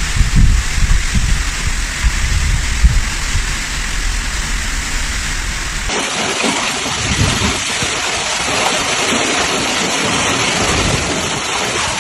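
Storm sounds: heavy rain with strong wind gusts buffeting the microphone, then an abrupt change about six seconds in to a steady hiss of heavy rain with less wind.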